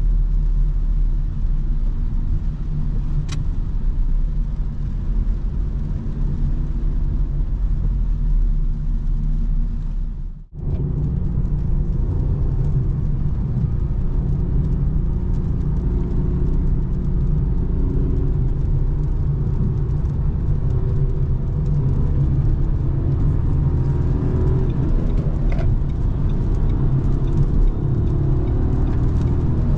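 Inside the cabin of a Renault Clio with the 1.0 TCe three-cylinder turbo petrol engine, the engine runs under way with steady road noise. The sound cuts out briefly about a third of the way through. In the last several seconds the engine pulls harder and its note climbs.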